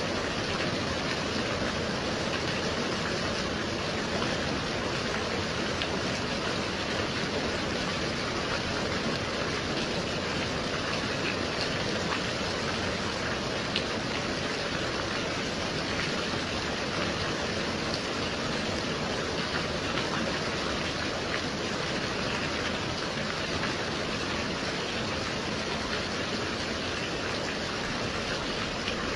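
Gentle rain falling steadily: an even, unbroken hiss of rainfall.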